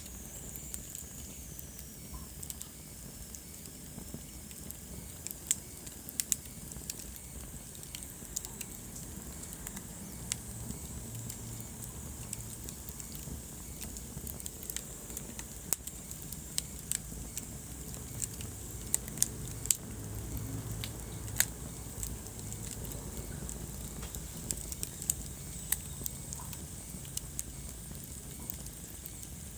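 Wood fire in a fireplace crackling, with irregular sharp pops and snaps over a steady low rumble of the flames. A faint high whistle slides down in pitch over the first few seconds.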